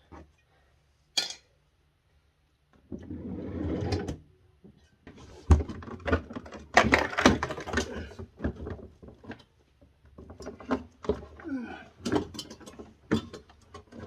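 Irregular plastic clicks, knocks and scraping from a screwdriver prying at a refrigerator's plastic freezer panel, with a rustling stretch before a dense run of knocks from about five seconds in.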